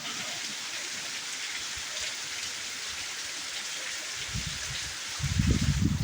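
Heavy rain falling steadily, a dense even hiss. Low rumbling bursts come in during the last two seconds and are the loudest sound there.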